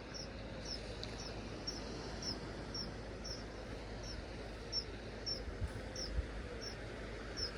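A Sylvia warbler (whitethroat type) giving short, high alarm calls from cover, repeated about twice a second, as it scolds a nearby kestrel.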